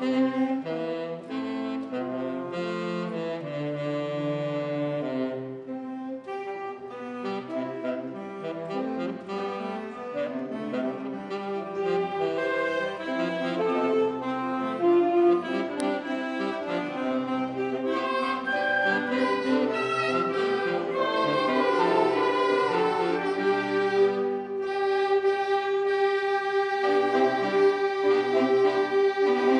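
Wind band playing sustained chords with a melody over them, saxophones and brass to the fore, ending on a long held note.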